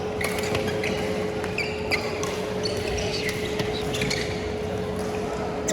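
Badminton rally in a sports hall: sharp pops of rackets striking the shuttlecock and short high squeaks of court shoes on the floor, spread irregularly over a steady electrical-sounding hum.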